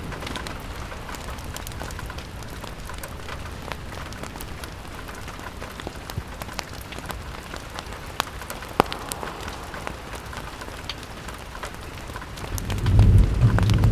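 Steady rain on a window glass, with scattered sharp ticks of drops. A low rumble swells up near the end.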